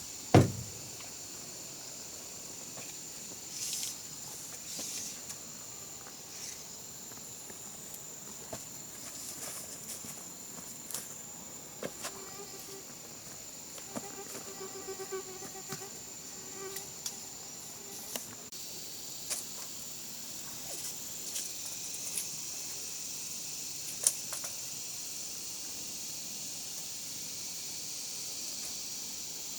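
Insects chirring in a steady high-pitched drone, with scattered light clicks and knocks and one sharp knock just after the start.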